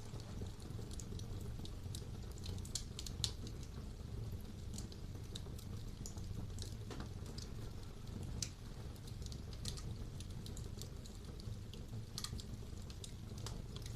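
Wood fire burning in a fireplace: a steady low rumble of the flames with irregular sharp crackles and pops, a few louder pops about three seconds in and near the end.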